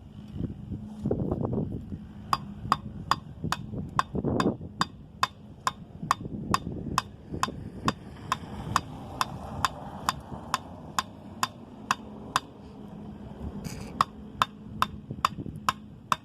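A sickle hammering a wooden stake into the ground, a steady run of sharp knocks about two a second that starts about two seconds in. The knocks break off briefly near the end, then go on again.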